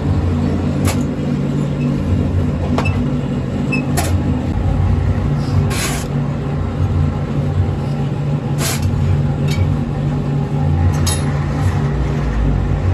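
A steady, loud, low machine hum, with sharp knocks about six times at irregular spacing, one near the middle a little longer than the rest.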